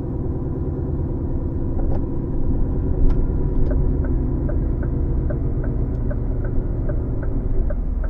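HGV lorry engine and road rumble heard inside the cab while driving, steady and low. About three and a half seconds in a regular light ticking starts, about three ticks a second.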